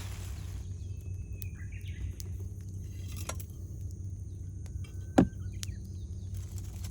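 Wood campfire crackling, with scattered sharp pops (the loudest about five seconds in) over a steady low rumble. Faint bird calls come through now and then.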